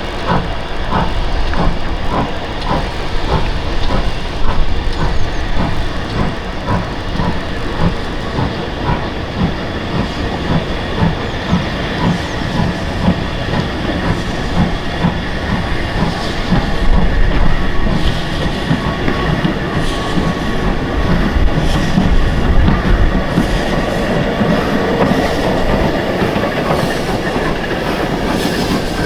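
Steam-hauled train running past, its wheels clicking over the rail joints about twice a second, with a steady high ringing from the wheels later on.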